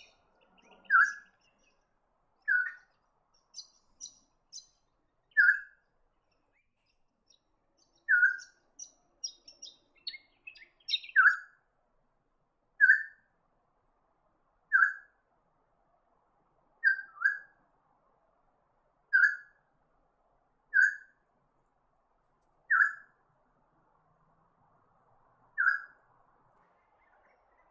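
Birds calling: one bird repeats a short, clear note every two to three seconds, over high, thin chips from other birds that thin out after the first half.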